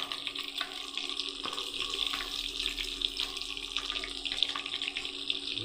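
Fish deep-frying in hot oil: a steady sizzle with many small crackles and pops.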